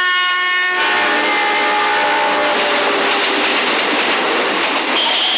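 Electric locomotive's horn sounding for about the first second, then the loud, steady rushing rumble of a passenger train speeding past.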